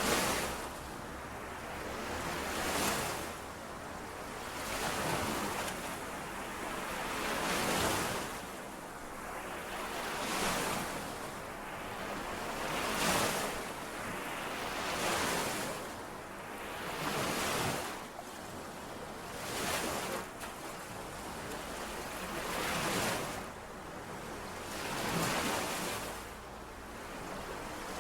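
Small lake waves washing in and out on the shore, one swell of splashing every two to three seconds.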